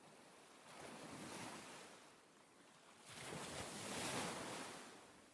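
Ocean waves washing in, two swells of surf: a smaller one about a second in and a louder one around four seconds in, each rising and fading away.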